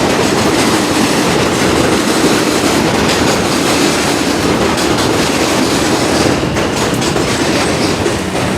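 A subway train rolling past, loud and steady, its wheels clacking over the rail joints.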